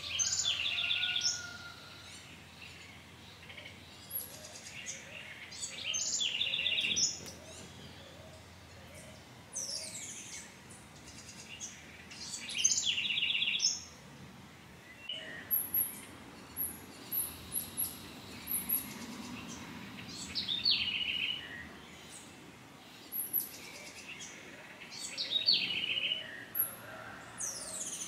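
A songbird repeating the same short song phrase five times, about every six seconds, each phrase a quick run of high notes sliding downward into a fast trill. Thin, very high chips come in between the phrases.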